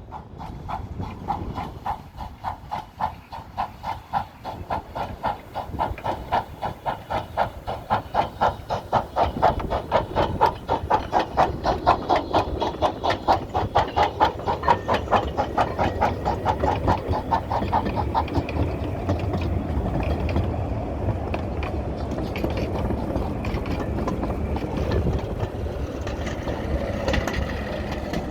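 A 15-inch-gauge miniature steam locomotive working, its exhaust beats coming in a quick, steady rhythm that grows louder. About two-thirds of the way through, the beats give way to a steady rumble of the train running, with hiss.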